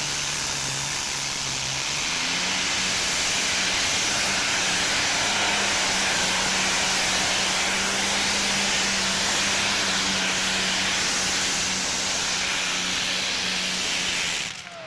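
Pulling tractor powered by a single Allison V12 aircraft engine running flat out on a pull: a loud, steady engine noise whose pitch climbs about two seconds in and then holds. It stops abruptly near the end.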